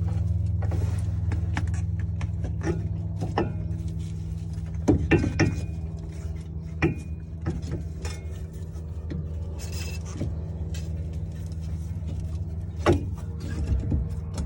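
Metal clunks and knocks as a replacement steering knuckle and its lower ball joint are worked into place, the loudest a few strikes about five seconds in and one near the end, over a steady low hum.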